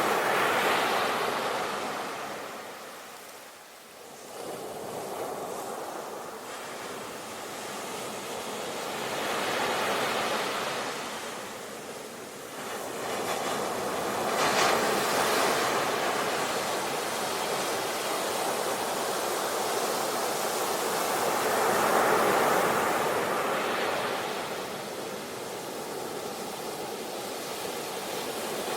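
Sea waves breaking and washing onto the shore, the surf swelling and ebbing in slow surges several seconds apart.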